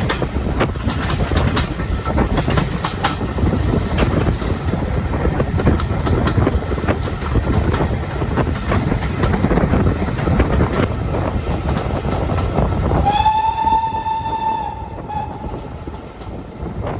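Train running with a loud rumble and scattered rail clicks; about thirteen seconds in, a single-note train whistle sounds for about two seconds, and the rumble then falls away.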